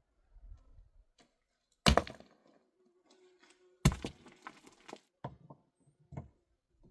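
Two hard, sharp knocks about two seconds apart, each followed by a brief rattle, then a few lighter knocks.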